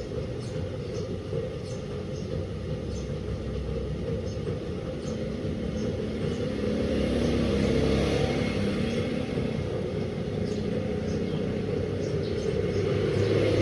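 Delta 16 kg washing machine running mid-cycle: a steady rumble of the turning drum, swelling louder about halfway through and again near the end, with faint light ticks over it.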